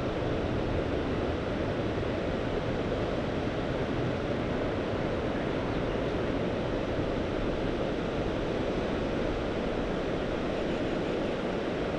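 Steady wash of sea waves on the shore, an even rushing sound with no single wave breaks standing out, mixed with wind on the microphone.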